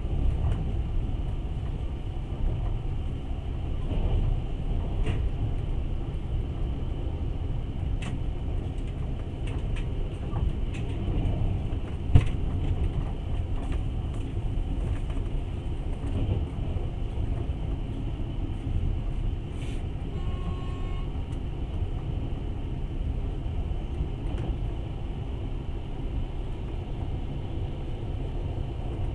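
Steady low rumble of a long-distance passenger train running on the rails, heard from inside the carriage, with scattered light clicks and one sharp knock about twelve seconds in.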